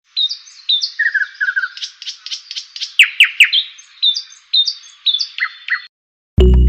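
Birds chirping in a quick run of short whistled notes, with three loud downward-sweeping calls about halfway through. The chirping cuts off abruptly about a second before the end.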